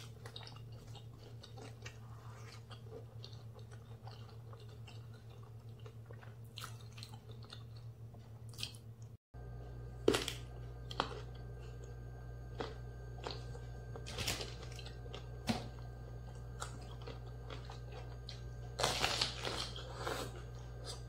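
Close-up chewing with scattered crisp crunches of raw vegetables being bitten. A denser, louder run of crunching near the end as a raw yellow bell pepper is bitten into.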